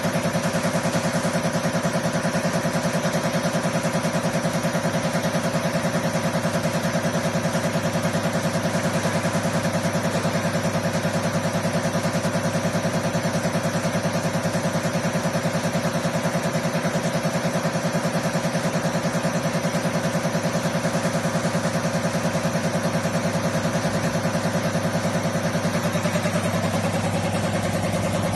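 Common rail diesel injector test bench running steadily, its drive motor and high-pressure pump humming with a rapid, even pulsing. Its tone shifts near the end.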